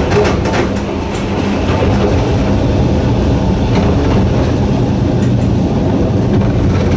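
Narrow-gauge Hokusei Line electric train running, with the steady low hum of its nose-suspended traction motors and gearing. A few clicks of the wheels over rail joints come in the first second and again around four seconds in.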